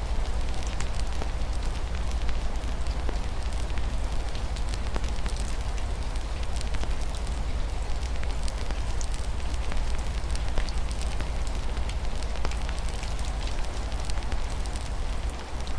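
Wood fire crackling with frequent small pops, over a steady hiss of rain and a low rumble.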